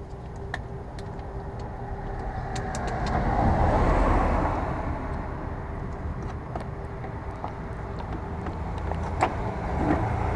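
A vehicle passing by, its noise swelling and fading about four seconds in over a low steady rumble, with scattered light clicks and taps.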